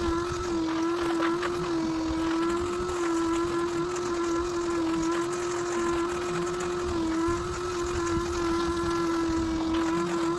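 A vacuum motor, as on a carpet extractor or wet-dry vac, running continuously with a steady whine while cleaning carpet. Its pitch dips slightly now and then.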